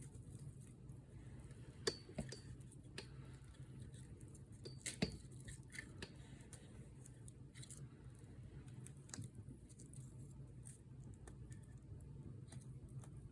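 Wood fire crackling faintly, with irregular snaps and pops. The two loudest pops come about two and five seconds in.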